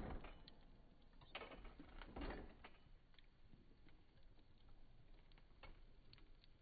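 Near silence with a few faint knocks and soft clicks, the clearest about one and two seconds in.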